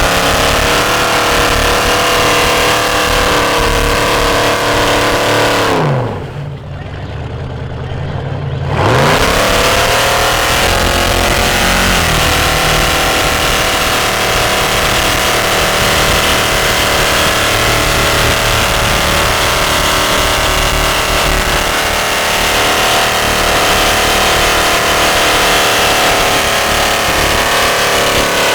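Off-road vehicle engine running hard under throttle. About six seconds in the revs fall away as the throttle is let off, then climb back up a few seconds later. After a brief dip a little later, the engine holds a steady high-revving note.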